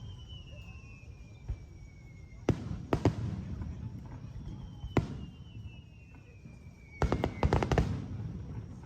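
Aerial fireworks: two whistling shells, each a falling whistle lasting a couple of seconds, each followed by sharp bangs. The last ends in a quick string of cracks near the end.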